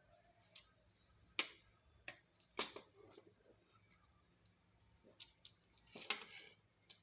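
Scattered small clicks and taps from a laptop DVD drive's parts being handled, about eight in all, the loudest about one and a half, two and a half and six seconds in.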